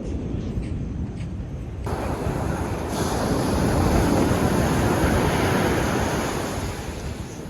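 Wind and surf making an even rushing noise. It grows much louder about two seconds in and eases off near the end.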